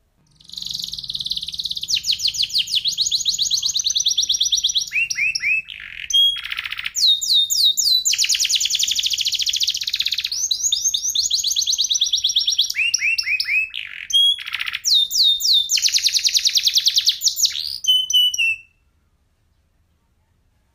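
Domestic canary singing a long, loud song of rapid trills and rolls. It moves between fast repeated-note phrases at different pitches and stops abruptly near the end.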